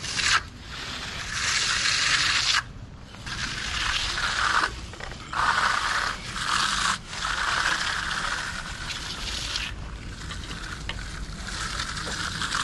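Repeated long scraping strokes of a hand tool dragged across fresh concrete, each stroke lasting one to a few seconds with short breaks between them.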